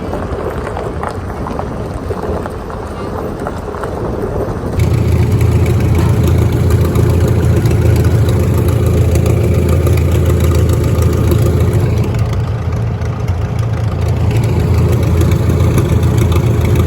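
Vehicle engine running steadily. About five seconds in, after an edit, it becomes louder with a strong, deep, steady hum.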